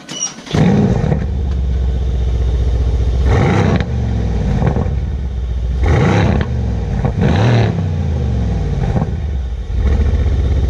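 Mercedes-AMG C 63 S's twin-turbo V8 started up and heard at its quad exhaust tips: a brief crank, the engine catching with a sharp rise in level within the first second, then idling with several short throttle revs. It runs louder again near the end.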